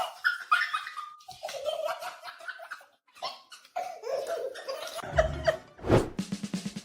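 A person laughing in repeated bursts, then background music with a steady low beat comes in about five seconds in.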